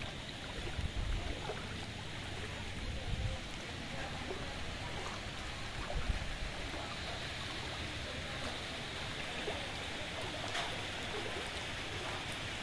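Steady rain falling on standing floodwater, a constant even hiss, with a few brief low thumps about one, three and six seconds in.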